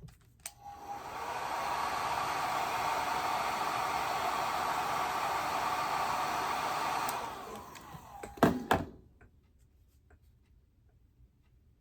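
Handheld hair dryer blowing steadily for about six seconds to dry wet watercolour paint, then switched off and winding down. Two sharp knocks follow as it is put down.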